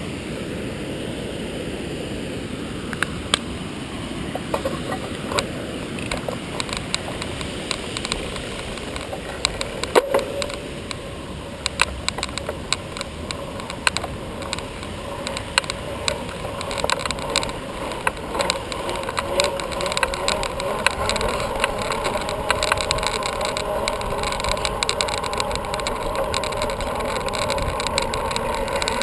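Bicycle riding noise: a steady rush of wind and tyres with frequent sharp clicks and rattles, growing a little louder and busier about halfway through.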